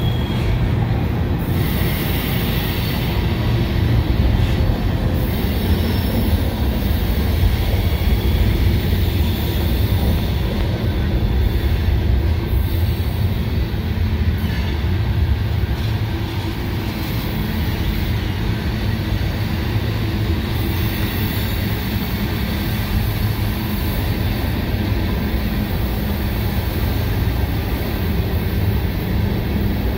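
Freight train cars (covered hoppers, then tank cars) rolling steadily past, their wheels running on the rails in a continuous low rumble.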